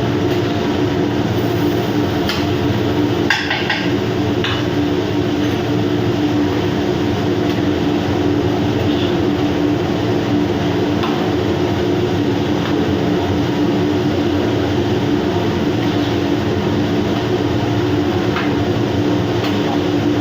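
Steady machinery drone with a constant low hum, with a few light clinks of utensils against a plate a few seconds in as pasta is served.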